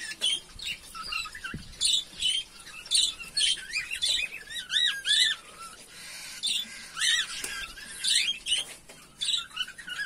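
Cage birds chirping and calling over and over in short high notes, with a few warbling calls near the middle.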